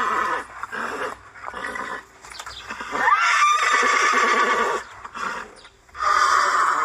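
Horses neighing repeatedly: loud, wavering whinnies at the start, about three seconds in, and again near the end, with quieter calls between.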